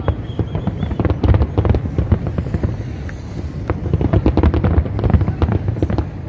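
Aerial fireworks bursting in a rapid, continuous barrage: many sharp cracks and bangs over a steady deep rumble.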